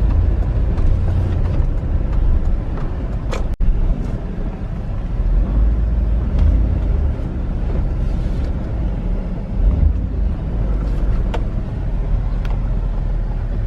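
Steady low rumble of engine and road noise inside a moving car, with a brief break in the sound about three and a half seconds in.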